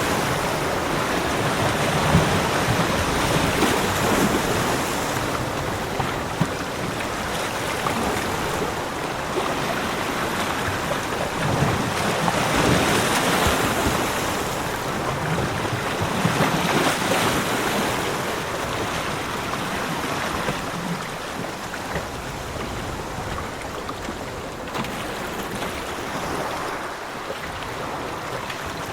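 Ocean waves breaking and washing on a beach, rising and falling in slow swells every few seconds.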